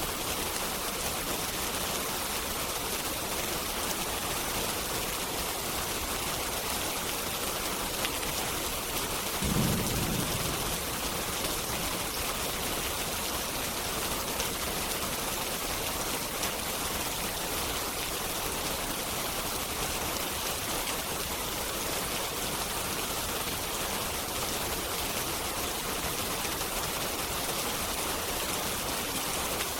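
Steady rain with a constant hiss, and a short low rumble of distant thunder about ten seconds in.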